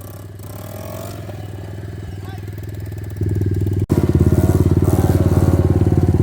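125 cc dirt bike engine with a straight-piped exhaust running steadily. It grows louder about three seconds in, breaks off for a moment just before the four-second mark, then runs on louder and steady.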